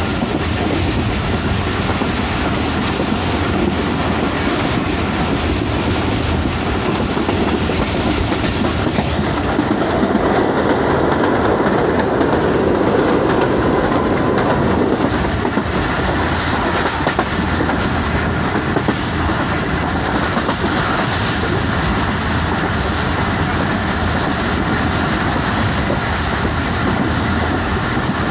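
Passenger train running at speed, heard from aboard: a steady rumble with the clickety-clack of wheels over the rail joints. For about five seconds in the middle the rumble swells and grows fuller, then settles back.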